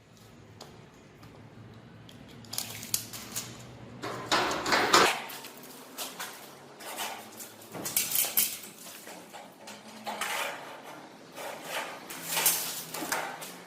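Work on the steel door hinges as they are welded on: irregular metallic clinks and short crackling bursts, starting a couple of seconds in and coming every second or two.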